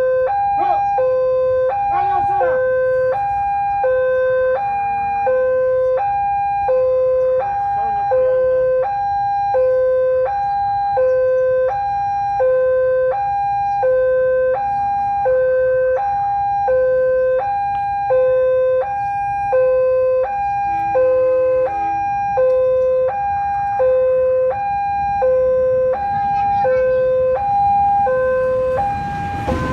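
Railway level-crossing warning alarm sounding a steady alternating two-tone electronic signal, high and low tones swapping about once a second, warning that a train is approaching.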